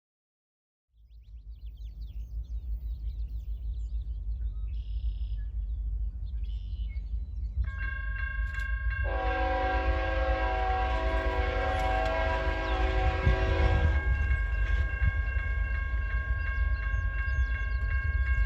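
A CN diesel train approaching with a low rumble that builds steadily. A bell starts ringing steadily about eight seconds in, and the locomotive's multi-note air horn sounds one long blast of about five seconds over it.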